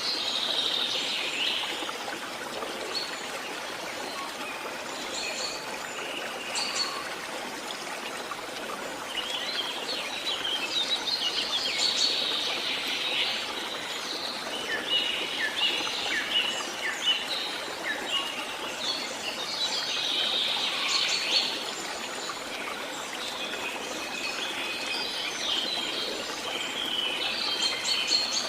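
Songbirds chirping and calling in several bursts of quick notes, over a steady background hiss.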